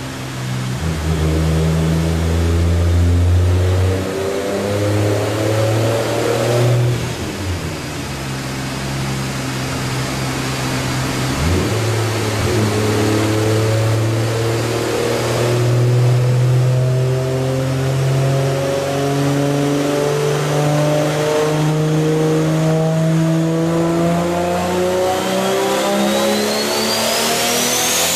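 Tuned car engine run under load on a chassis dyno: revving with a couple of brief dips early on, then one long pull with the pitch climbing steadily. A high rising whine joins in near the end.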